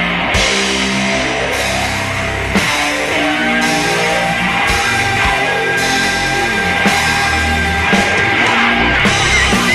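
Heavy rock band recording: distorted electric guitar, bass and a drum kit playing a loud, steady passage.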